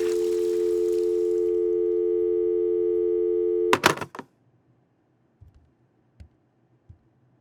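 Telephone dial tone, a steady two-note hum, left on the line after the call is hung up. It cuts off about halfway through with a quick clatter of clicks, then near silence with a few faint soft knocks.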